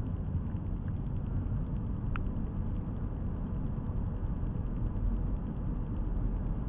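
Steady low rumble of a car's road and engine noise, heard inside the moving car's cabin. A brief faint high squeak about two seconds in.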